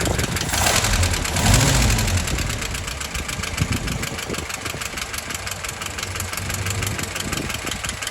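The four-cylinder engine of a restored 1957 Willys CJ5 jeep running smoothly. It revs up and back down briefly about a second in, then settles to a steady idle.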